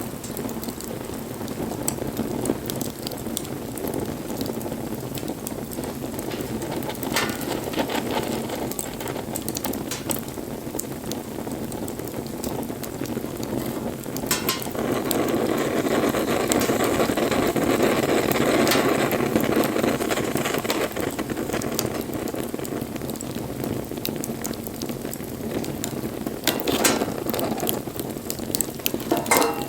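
Wood bonfire burning: a steady hiss full of small crackles, with a few louder pops. It swells louder for several seconds around the middle.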